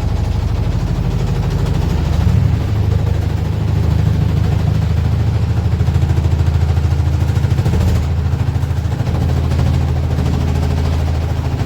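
Candy RapidO washing machine running with a loud, steady low rumble and a fast, even pulsing. The owner attributes this exaggerated noise to something rubbing or out of adjustment inside the machine.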